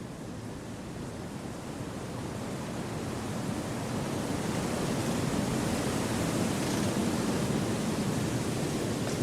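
Wind blowing through forest trees: a steady rushing that swells over the first few seconds and then holds.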